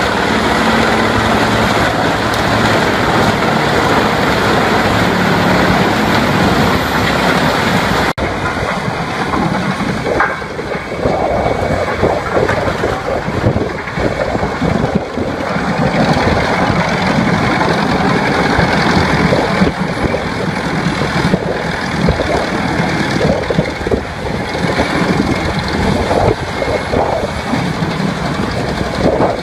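Heavy machinery running loudly and steadily. About eight seconds in the sound switches abruptly to a rougher, more uneven machine noise with irregular surges.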